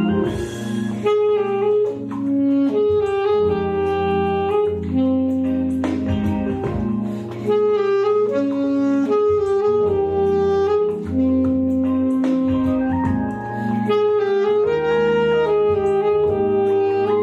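Saxophone playing a melody in long held notes over a backing track of sustained chords and bass.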